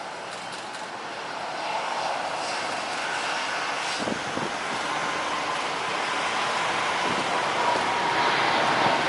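Jet airliner engines, a broad rushing roar that grows steadily louder as the aircraft approaches, with a steady whine coming in over the second half.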